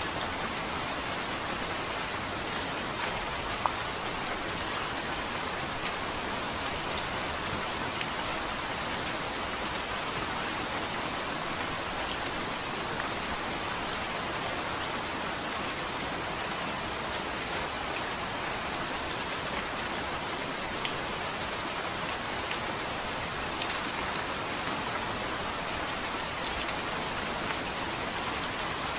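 Steady rain falling, with scattered close drop clicks and a few sharper drips.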